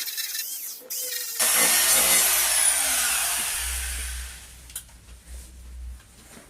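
A hand-held power tool starts abruptly about a second in and then spins down, its high whine falling in pitch as it fades over a few seconds. It is preceded by light scraping and followed by a few small knocks.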